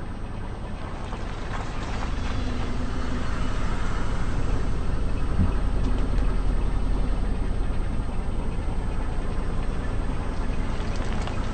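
Car engine running at low speed as the car creeps over asphalt, growing louder over the first few seconds and then holding steady; a single short knock about five seconds in.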